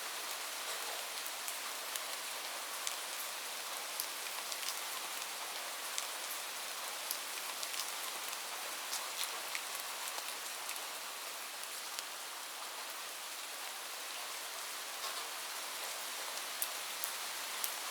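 Light rain falling steadily, a continuous hiss with the ticks of single drops landing close by.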